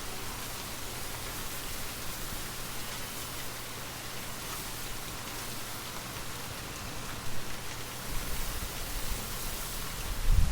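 Steady rain falling, an even hiss of many drops. About two seconds before the end a low rumble swells in under it and the level becomes uneven.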